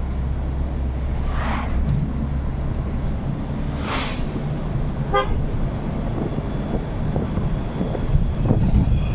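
Old Suzuki Katana running along the road, a steady engine and road rumble, with two short whooshes about one and a half and four seconds in and a brief horn toot about five seconds in.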